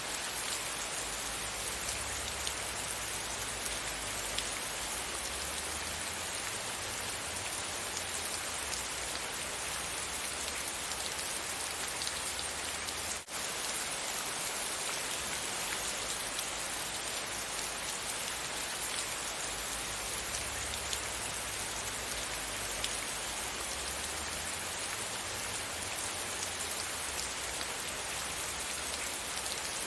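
Steady rain falling, an even hiss of drops on surfaces, with a momentary break a little under halfway through.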